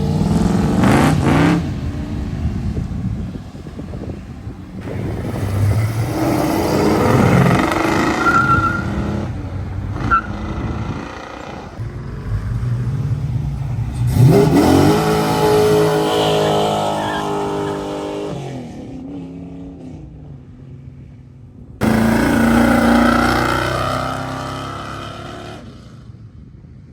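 Car engines revving hard and accelerating, in several separate passes: the sound starts afresh about five seconds in, again near the middle, and again about five seconds before the end, each time rising in pitch and then fading.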